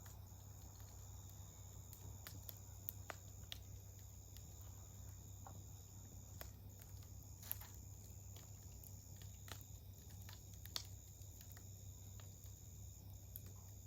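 Wood campfire crackling, with scattered sharp pops, the loudest about three, seven and eleven seconds in. Under it runs a steady, unbroken high insect trill, typical of crickets.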